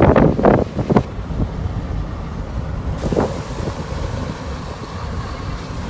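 Jeep driving on a rough trail: a steady low engine and road rumble, with several loud short bangs or jolts in the first second and another about three seconds in.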